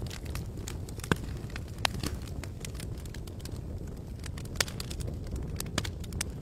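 Campfire burning: irregular sharp crackles and pops over a steady low rumble of flames, with the loudest pops about a second in, just before two seconds and a little past four and a half seconds.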